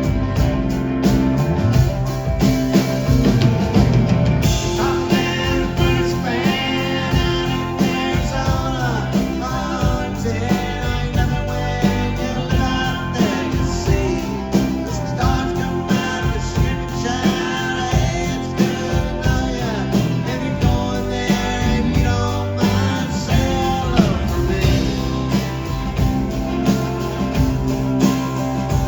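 Live country-rock band playing an instrumental break: strummed guitar, bass and drums keep a steady beat under a lead instrument playing a melody with bent, wavering notes.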